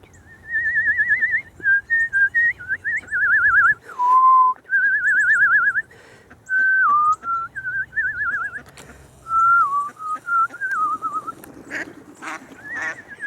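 A person whistling to call wild cardinals: a series of warbling, trilled whistled phrases with short pauses between them, with one lower, steady note about four seconds in.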